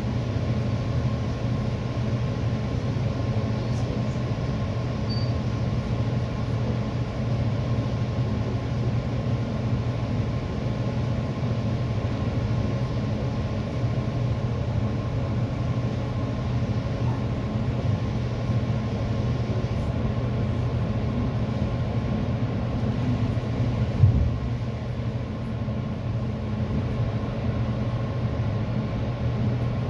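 Commuter train running along the track, heard from inside the passenger coach: a steady low rumble of wheels on rail. One sharp knock stands out late on.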